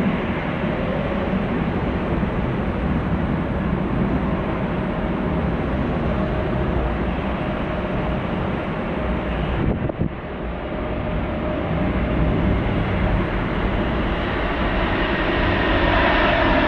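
Widebody jet airliner engines, a loud steady rush. The sound breaks off for a moment about ten seconds in, then builds louder again with a rising whine near the end.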